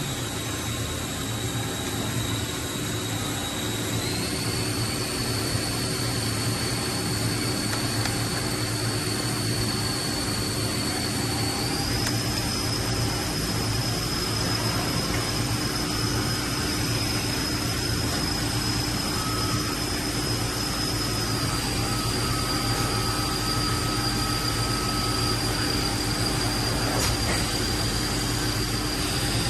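Kiwa KMH300A horizontal machining center running: a steady machine hum and air noise under a high whine that steps up in pitch a few seconds in and again about twelve seconds in, then eases slightly lower past the middle.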